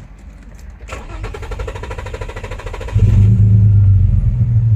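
2003 Infiniti G35's 3.5-litre V6 cranking on the starter for about two seconds, then catching and running loudly. It runs rough, the misfire it is being diagnosed for.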